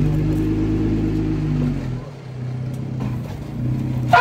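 Off-road 4x4's engine running at low revs under load, easing off about two seconds in and picking up again near the end, with a short sharp sound right at the end.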